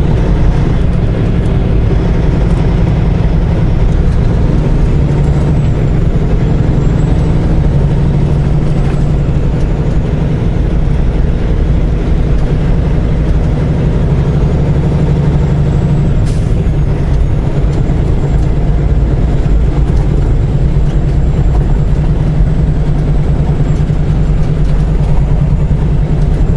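Semi truck's diesel engine and drivetrain running with a steady, loud low drone while the truck is being driven, heard from inside the cab.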